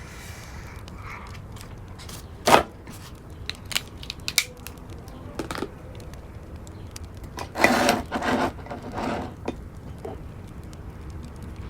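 Wood fire crackling in a fireplace: scattered sharp pops and snaps over a steady low rumble, with a loud pop about two and a half seconds in and a denser burst of crackling about eight seconds in.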